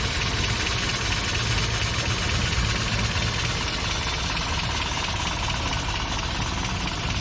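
1980 Toyota Corona's engine idling steadily.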